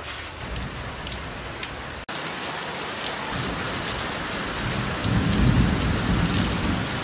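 Heavy rain pouring down steadily onto roofs and concrete, with a low rumble of thunder swelling up about five seconds in.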